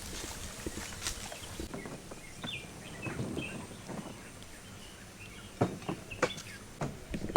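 Outdoor ambience with a few short, high bird chirps, then a handful of sharp knocks or clicks in the last two seconds.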